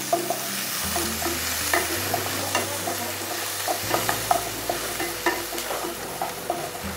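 Chopped onions and cumin seeds sizzling in hot oil in a non-stick pan, while a slotted wooden spatula stirs them with many short, irregular scrapes and taps against the pan. The onions are just beginning to soften and turn pink.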